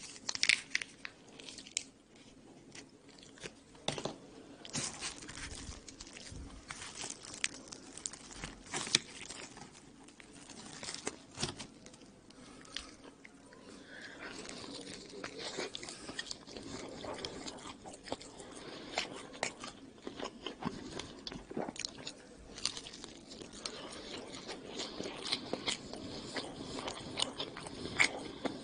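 Close-miked biting and chewing of pizza, the baked crust crunching and crackling between the teeth in irregular bites. The crunching grows denser and louder from about halfway through.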